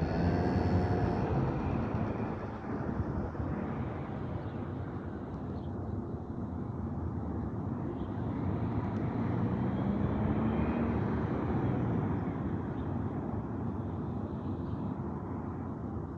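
PMX motorcycle engine revving as it pulls away, the sound falling off over the first few seconds. It then goes on as a steadier, more distant engine drone that swells a little and eases again near the middle.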